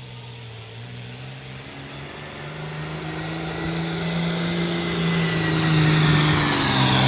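Pulling tractor's engine running wide open under load as it drags the weight sled down the track, its note climbing a little and growing steadily louder as it comes closer.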